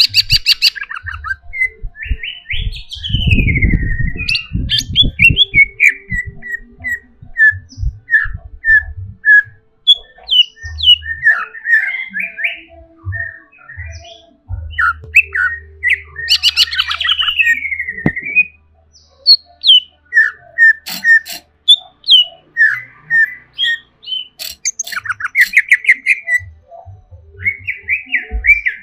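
Cucak ijo (green leafbird) singing in a varied, agitated run of sharp chirps, squawky notes and whistled pitch glides, broken by quick rattling trills. A few low thumps come about three to five seconds in.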